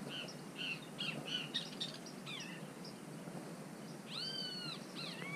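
Birds calling: a run of short high chirps, then quick downward-gliding notes, and a single arched, mewing call about four seconds in, followed by more gliding calls.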